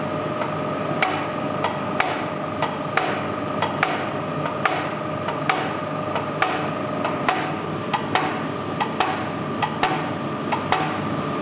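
Diesel injector from a D49 locomotive engine firing on a hand-pumped test stand. It gives sharp, fairly regular clicks about twice a second over a steady hum. The injector is passing the test with a crisp spray.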